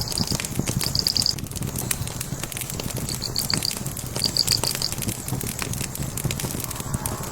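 Wood fire crackling, with frequent small pops over a steady low rumble. A small bird chirps in quick series of high notes, three or four times.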